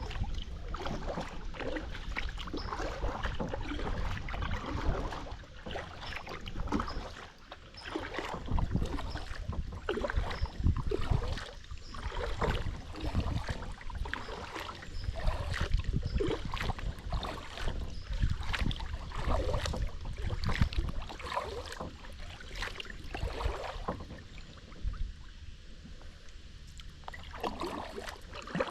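Kayak paddling: paddle blades dipping and splashing in the water in an irregular run of strokes, over a low rumble.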